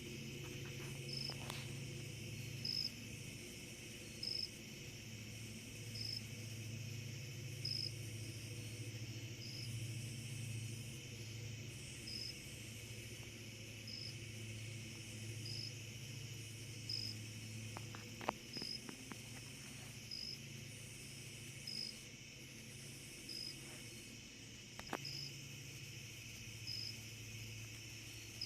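Distant CSX freight train's diesel locomotives working hard uphill, heard as a faint, steady low rumble. Over it a cricket chirps, one short high chirp about every one and a half seconds.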